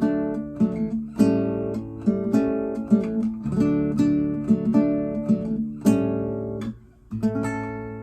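A nylon-string classical guitar built after the Torres FE-18 is played solo. Plucked notes and chords ring out and decay one after another, and the sound breaks off briefly about seven seconds in before the playing resumes.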